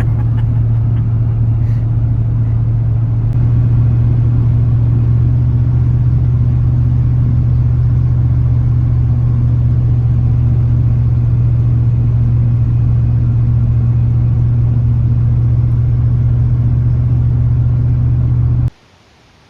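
Steady low drone of a car being driven, engine and road noise heard from inside the cabin, stopping abruptly near the end.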